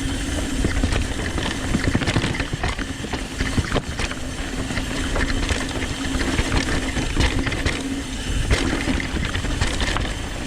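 Downhill mountain bike riding down a rough trail: tyres running over dirt and rocks, with the bike's chain and frame rattling in a constant run of quick knocks and a steady low hum.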